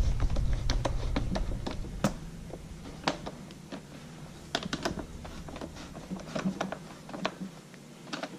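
Scattered light clicks and taps of hands and a tool on the plastic parts of a RedMax backpack blower as its air tube is fitted and tightened, at an irregular pace.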